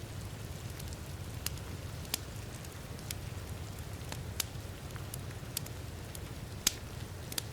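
Wood fire crackling in a fireplace, with sharp pops about once a second and the loudest pop near the end, over a steady wash of heavy rain.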